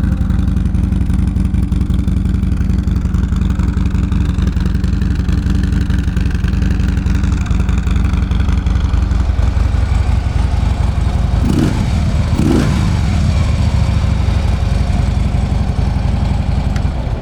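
2014 Harley-Davidson Tri Glide's 103 cubic-inch V-twin idling steadily through its factory exhaust, with two quick blips of the throttle about two-thirds of the way through before settling back to idle.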